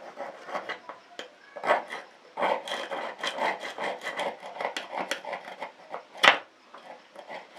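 Irregular scraping and rubbing strokes of hand tools working rust off metal parts, with one sharp knock about six seconds in.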